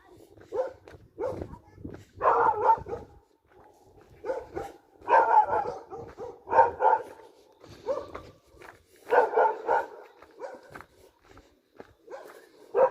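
A dog barking repeatedly, in short bursts and clusters of barks every second or few.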